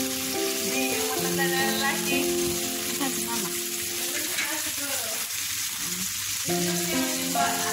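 Chicken pieces sizzling on a hot ridged grill pan, a steady frying hiss, under background music of held notes that change in steps.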